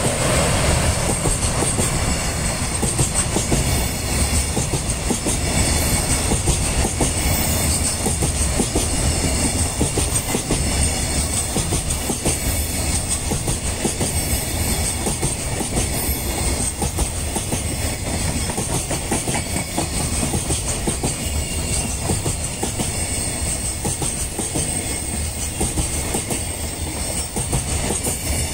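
A long freight train of Koki 105 flat wagons loaded with 31 ft containers rolling past close by: a steady, unbroken noise of wheels running on the rails.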